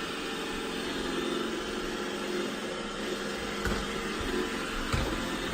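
Roomba i7+ robot vacuum running as it drives itself back toward its dock: a steady mechanical hum, with a couple of soft knocks in the second half.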